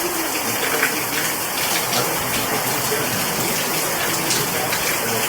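Heavy rain pouring down in a steady, even rush of water.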